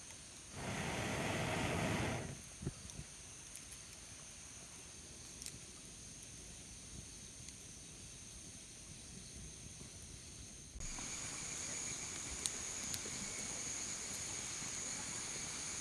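Outdoor ambience with a steady high-pitched drone, typical of insects, and a few faint clicks. A loud rushing noise lasts about a second and a half near the start, and the drone becomes louder about eleven seconds in.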